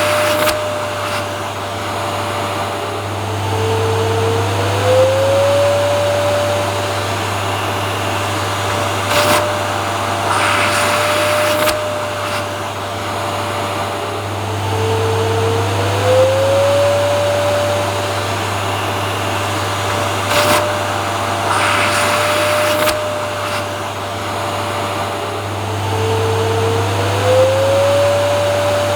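Vacuum cleaner running steadily, a loud motor hum and whine. About every eleven seconds the whine dips briefly and slides back up in pitch, with short flares of hiss.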